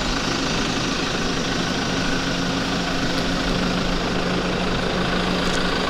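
Car engine running steadily at low speed close by, a low hum under a broad even hiss.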